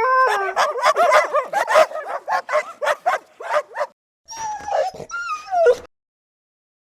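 Dog yipping in a quick run of short, high calls after a held whine at the start. After a brief pause come a few drawn-out whines, and then it stops about a second before the end.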